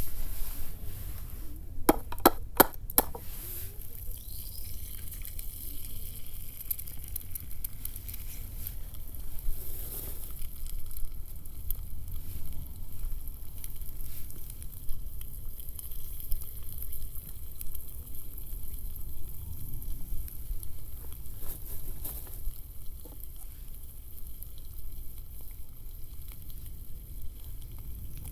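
Steady sizzling and fine crackling over an open wood campfire, with a few sharp clicks about two to three seconds in.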